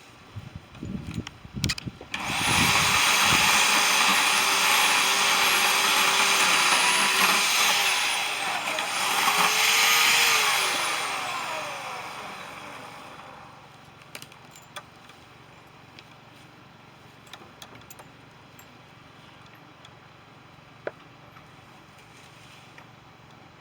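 Chainsaw running at full speed for about ten seconds, dipping and picking up again about eight seconds in, then winding down to a stop. A few sharp knocks come just before it starts.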